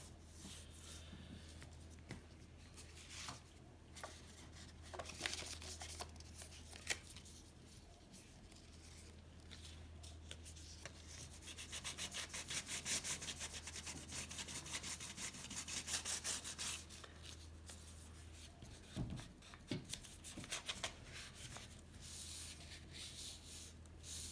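Hand rubbing the painted steel bicycle frame with a fine abrasive, in scattered strokes with a long spell of fast back-and-forth rubbing near the middle, over a steady low hum.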